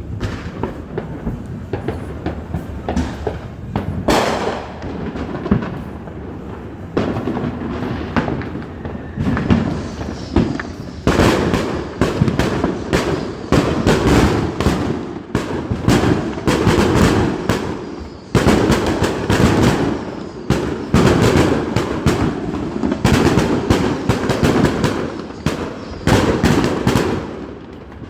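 Fireworks going off one after another, bangs and crackles that come thicker and faster from about a third of the way in.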